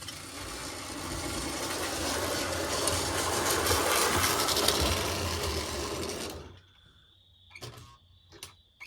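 Lionel 1666 toy steam locomotive's electric motor and gears running along the track with a whirring rattle, then cutting out about six and a half seconds in as the locomotive stalls. A few short clicks follow.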